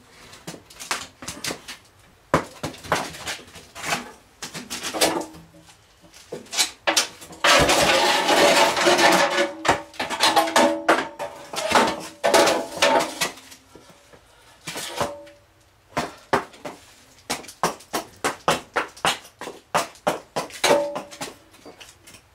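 Irregular clattering and knocking of hard objects, many sharp hits in quick succession, with a denser, louder clatter about eight seconds in.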